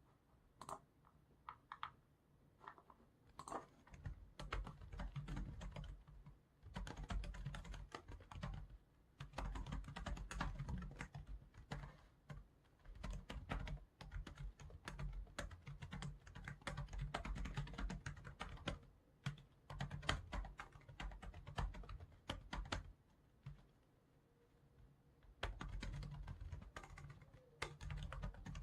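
Typing on a computer keyboard in long, fast runs of keystrokes, after a few scattered single clicks at the start. The typing stops for about two seconds near the end, then starts again.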